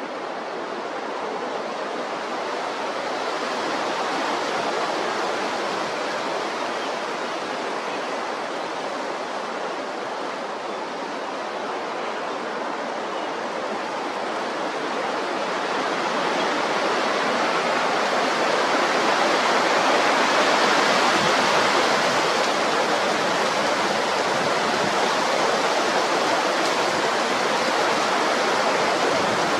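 Strong wind blowing: a steady rushing noise that swells and eases slowly over several seconds.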